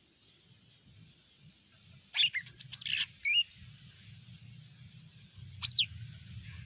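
Green leafbird (cucak ijo) calling: a quick burst of sharp, high chirps about two seconds in, then a short falling call near the end, over a faint low hum.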